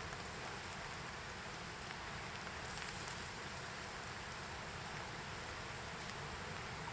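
Light rain falling: a steady, even hiss of drizzle.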